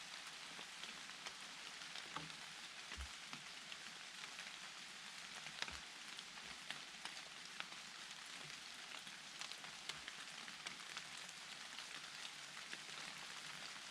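Steady rain falling: a constant hiss with many single drops ticking sharply close by.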